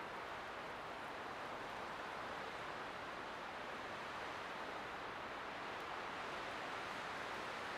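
Light wind blowing steadily, an even hiss with no gusts or breaks.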